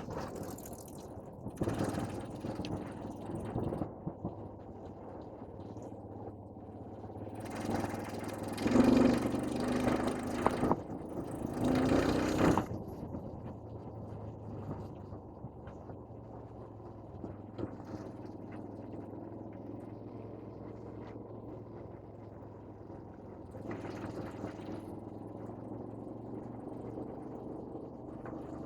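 Motor vehicle engine running steadily with a low hum, surging louder several times, most strongly in two stretches in the first half.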